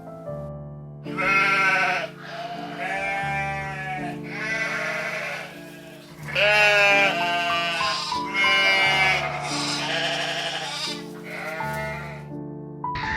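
An animal bleating in a series of short calls, one after another, over background music.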